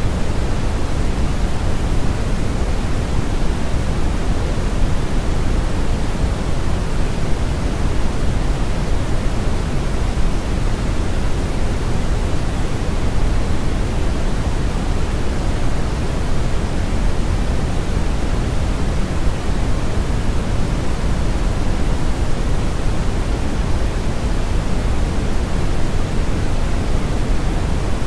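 Synthetic brown noise: a steady, even rumble-like hiss, strongest in the low end with the highs rolled off, unchanging throughout.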